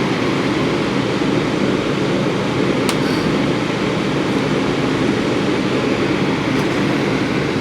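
Blower fan of a freshly rebuilt 220-volt electric heater running steadily, a constant airy rush, with a single brief click about three seconds in.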